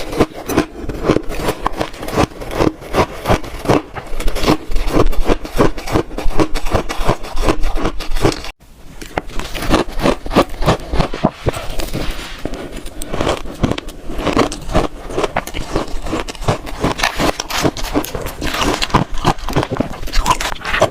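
Close-miked crunching of shaved frozen ice being bitten and chewed: rapid, dense crackles and crunches. There is a brief break about eight and a half seconds in, after which the crunching picks straight up again.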